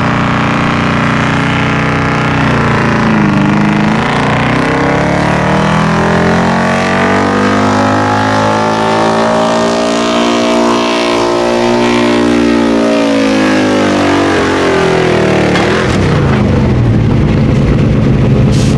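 A powerful tractor engine running hard at high revs. Its pitch dips about three seconds in, climbs and holds high through the middle, then falls away near the end.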